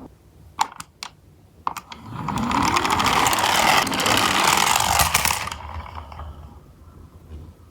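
A few light clicks, then a toy garbage truck rushing down a steep slope: a loud mechanical whirring and rattling of small gears and plastic wheels, rising in pitch as it speeds up. It lasts about three seconds and then fades away.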